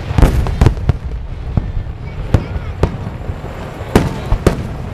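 Aerial fireworks shells bursting: a quick run of bangs in the first second, then single bangs spaced about half a second to a second apart.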